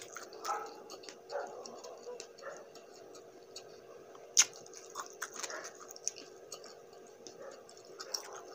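Close-miked eating sounds of a person chewing a mouthful of chicken wing and rice: scattered soft mouth clicks and smacks, with one sharper click about four and a half seconds in, over a faint steady hum.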